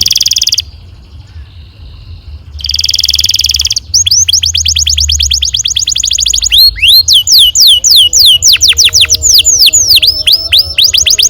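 Domestic canary singing: two short buzzy rolls, then from about four seconds in a fast run of rising high notes, changing near the middle to a string of loud down-slurred whistles about four a second.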